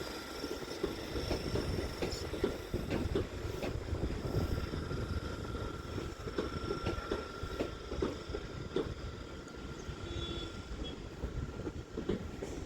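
Train noise at a railway platform: a steady low rumble with scattered clicks and a faint steady whine.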